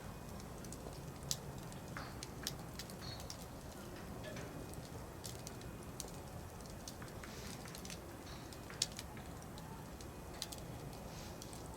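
Wood fire crackling in a fire pit, with scattered sharp pops of burning firewood over a low steady rumble; the two loudest pops come about a second in and near the end.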